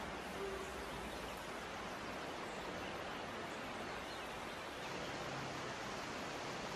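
Gentle stream of running water, a steady even rush with no break.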